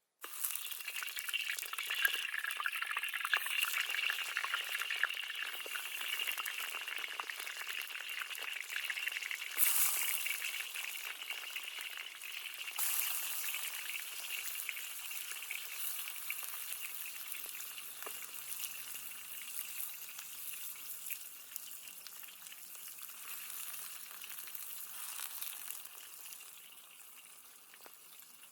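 Food frying in hot oil in a pan: a dense sizzle and crackle that starts abruptly and slowly dies down.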